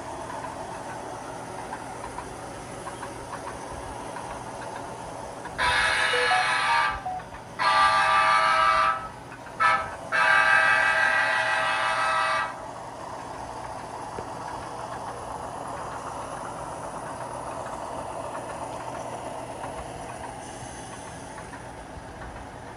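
Sound-equipped model diesel locomotive sounding its horn in the grade-crossing pattern: long, long, short, long. Under it runs the steady noise of the long model train rolling along.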